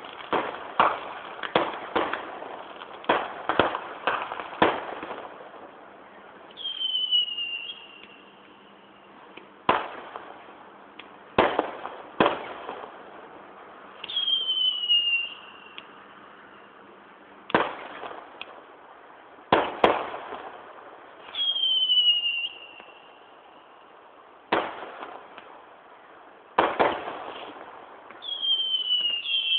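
Distant fireworks display: sharp bangs, a rapid cluster in the first few seconds, then single booms every couple of seconds, each trailing off in a rolling echo. Heard through a mobile phone's microphone, the sound is thin and lacks any treble.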